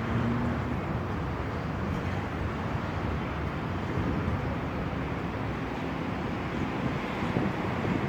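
Strong windstorm wind blowing, a steady rushing noise.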